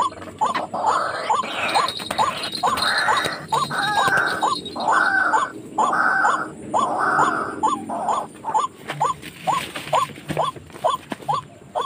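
White-breasted waterhen calling: a fast series of short, rising call notes, two to three a second, mixed with harsh croaking calls for most of the first eight seconds, then the clipped notes alone.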